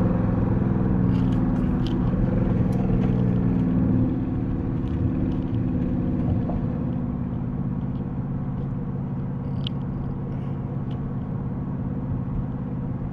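Dodge Charger R/T's 5.7-litre HEMI V8 running while driving. The engine note eases off about four seconds in and settles to a steady, quieter tone.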